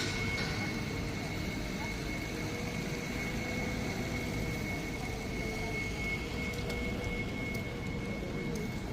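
Steady city street traffic: a low vehicle rumble with a constant high whine held through.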